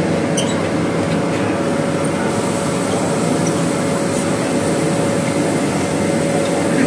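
Steady running hum inside a crowded MTR South Island Line S-Train car: ventilation and electrical equipment with a constant mid-pitched tone. A thin high whine joins in about two seconds in.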